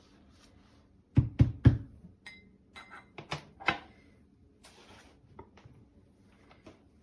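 Hard objects being handled: three loud knocks in quick succession about a second in, then lighter clicks and a few short clinks.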